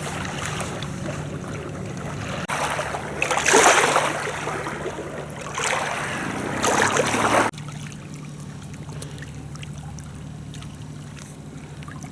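Steady low drone of a motorboat engine on the river, with a louder wash of water noise in the middle that cuts off suddenly about seven seconds in.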